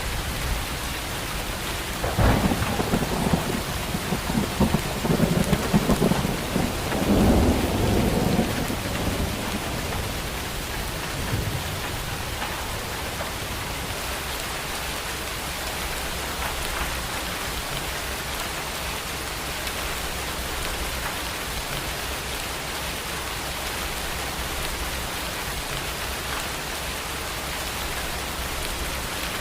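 Steady heavy rain with a thunderclap about two seconds in that rolls on in several loud rumbling surges for around seven seconds, then fades back to the rain alone. More thunder starts right at the end.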